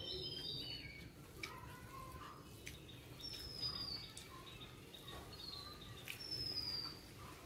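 Birds chirping, several short falling whistles a second or two apart over a low steady background hum, with a few faint clicks.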